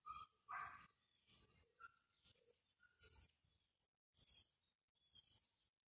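Faint bird chirps: a string of short, high calls, roughly one every half second to second, with quiet gaps between them.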